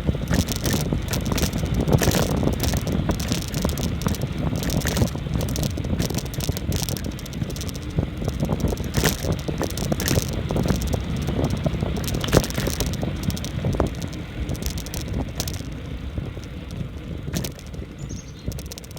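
Bicycle coasting fast downhill on a rough trail: wind rushing over the microphone and the bike rattling and clattering with many sharp knocks. It quietens in the last few seconds.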